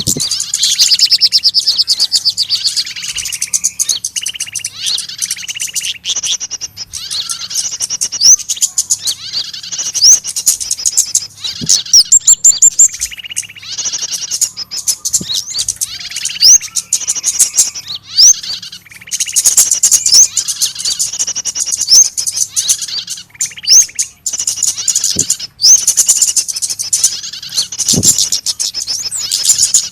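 A busy chorus of small songbirds chirping and calling over one another: rapid trills, sharp chips and short upward-sweeping whistles, as used in a bird-lure (pikat) recording of small birds in distress.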